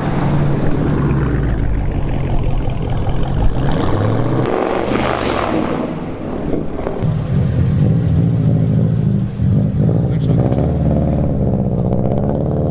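Car engines running. A brief rush of noise comes about five seconds in, and near the end one engine rises slowly in pitch as it revs up.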